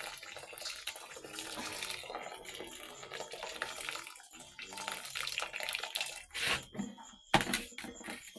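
Water running and splashing unevenly, with a few sharp knocks near the end.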